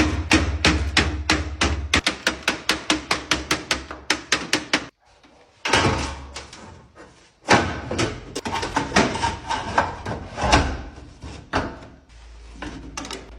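Rapid repeated knocks, about five a second for nearly five seconds, like hammering. After a brief break come several seconds of irregular knocks and clattering.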